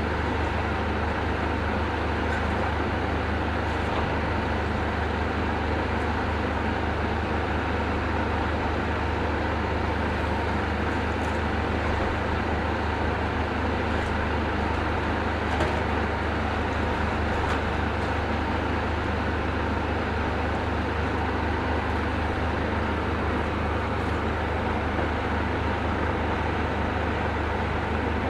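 Demolition excavator's diesel engine running steadily as it works, with a few faint clicks and knocks from debris.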